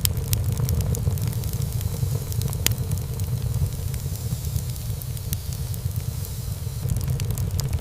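Wood fire burning in a fireplace: a steady low rumble of flames with frequent sharp crackles and pops of burning wood, one louder pop a little under three seconds in.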